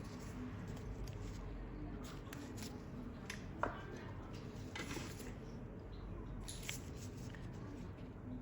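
Faint clicks and snips of toenail nippers trimming a mildly ingrown toenail, with one sharper snip a little past three and a half seconds in.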